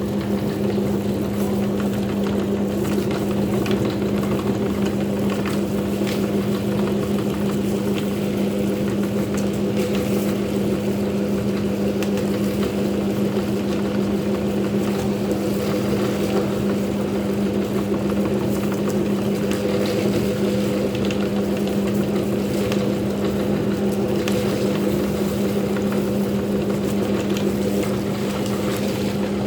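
Meat grinder motor running with a steady hum.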